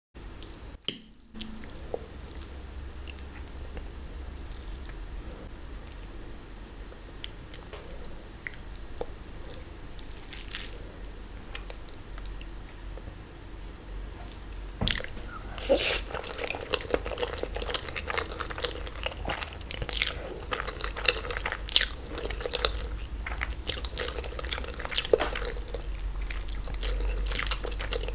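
Close-miked eating sounds: chewing, biting and wet mouth clicks, sparse at first, then denser and louder from about halfway through, over a steady low hum.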